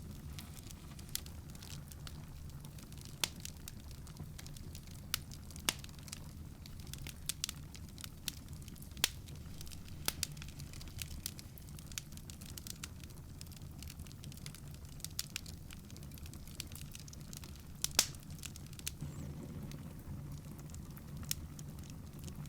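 Wood fire crackling, with irregular sharp pops, the loudest about eighteen seconds in, over a low steady hum.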